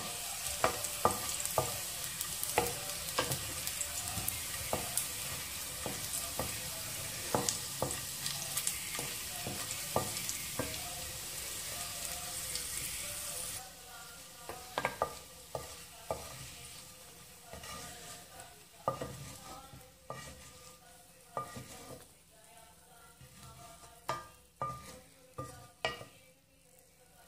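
Garlic cloves sizzling in hot oil in a wok, with a wooden spatula clicking and scraping against the pan as they are stirred. About halfway through, the sizzle drops off abruptly, leaving scattered knocks of the spatula against the wok as the garlic is scooped out.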